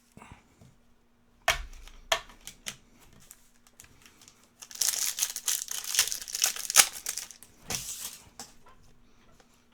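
Plastic trading-card wrapping crinkling and tearing as a pack is opened. A couple of sharp clicks about a second and a half in are followed by about three and a half seconds of dense crackling.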